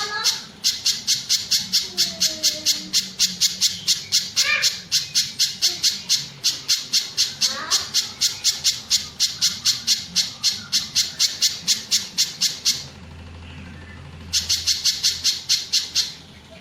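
Pijantung gunung (spiderhunter) calling: a fast, even series of sharp, high notes, about five a second, that breaks off for a second or so near the end and then starts again. Fainter, lower gliding whistles sound underneath.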